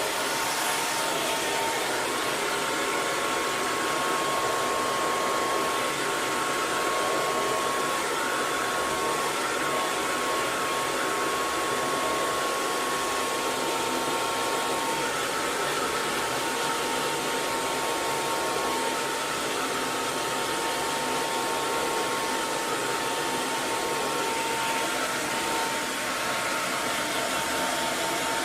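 Electric hair dryer running continuously: a steady rush of blown air with a faint motor whine held at one pitch.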